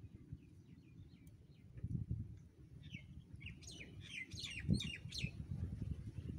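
Small birds chirping: a flurry of quick, falling chirps in the middle. Beneath them is an irregular low rumble that swells now and then, with a louder thump a little before the end.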